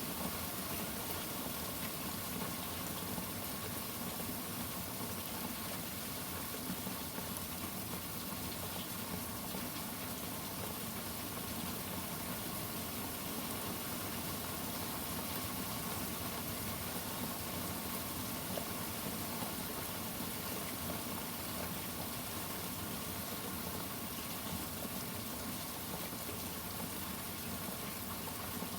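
Steady rain falling, an even hiss with no thunderclap or rumble standing out.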